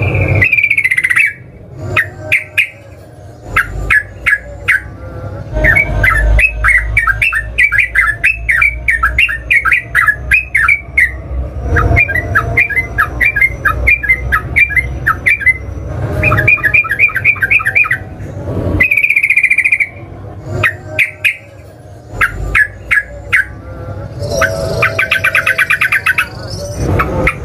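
Yellow-vented bulbul (trucukan) singing: long runs of quick, bubbly repeated notes, with a single drawn-out note about two-thirds of the way in and a very rapid trill near the end.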